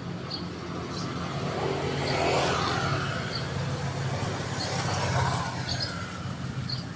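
Road traffic passing: a vehicle swells up and fades about two and a half seconds in, and another passes about five seconds in, over a steady low hum, with a few faint short chirps.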